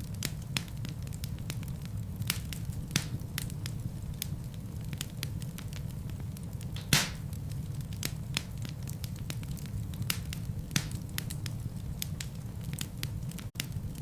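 Wood fire crackling in a fireplace: irregular sharp snaps and pops from the burning logs over a steady low rumble of the flames, with one louder pop about halfway through. There is a momentary gap in the sound near the end.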